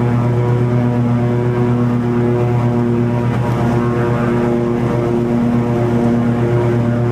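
Toro TimeCutter 50-inch zero-turn mower's engine running steadily at working speed, its mower blades cutting long grass.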